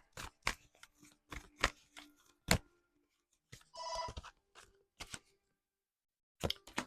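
Oracle cards being shuffled and handled: a run of short, sharp snaps and taps, with one brief ringing tone about four seconds in.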